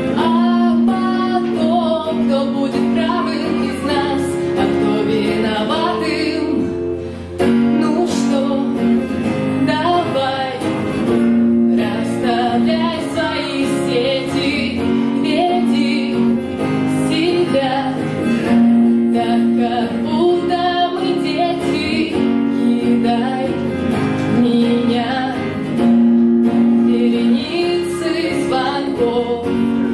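A woman singing a song to a strummed acoustic guitar, with a brief drop in loudness about seven seconds in.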